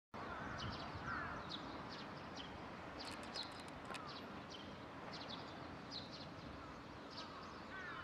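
Faint birds calling: many short high chirps and a few lower sliding calls, over a steady background noise.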